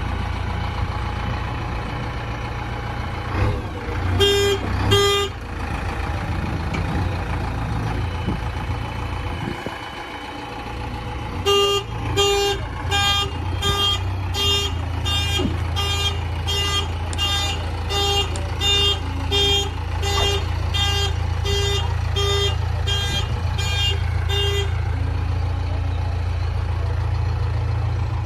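Heavy diesel engine of a tractor or backhoe running steadily, with two short horn blasts, then a vehicle horn or alarm beeping in an even pattern about one and a half times a second for some thirteen seconds before it stops.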